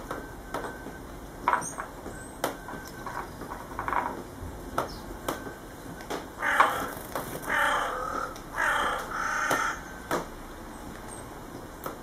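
Three harsh, drawn-out bird calls in a row, about a second each, starting about halfway through and louder than everything else. Before them come scattered short chirps and clicks, as from the house sparrows at the seed feeder.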